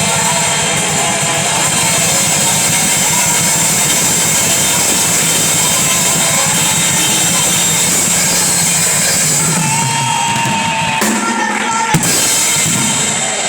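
Live band music with a drum kit playing loud and dense. About eleven seconds in the bass drops away, with a single sharp click shortly after.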